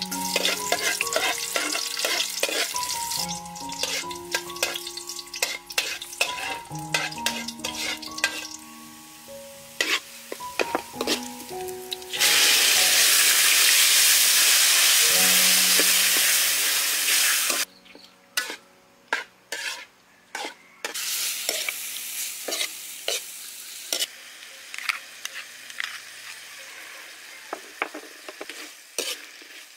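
Food frying in hot oil in a wok, sizzling, while a metal spatula stirs it and clacks and scrapes against the pan. About twelve seconds in the sizzling gets much louder for about five seconds, then drops back to scattered clacks of the spatula over a quieter sizzle.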